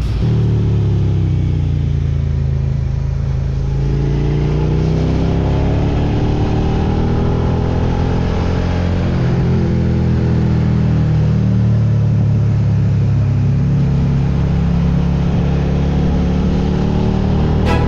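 Suzuki SV650X's 645 cc V-twin engine under way as the motorcycle is ridden, its pitch falling and rising with the throttle and gear changes.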